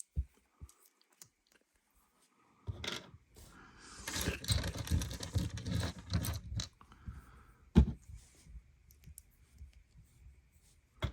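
Small plastic LEGO pieces being handled: a few light clicks, then several seconds of rummaging and scraping through loose pieces, and sharp clicks of parts being pressed on, the loudest about two-thirds of the way in.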